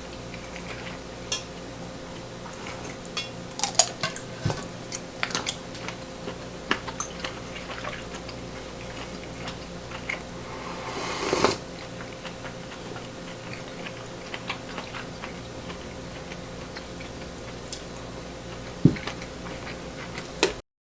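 Cutlery and dishes clinking and knocking at scattered moments, with a short rising rush of noise about halfway through and a sharper knock near the end.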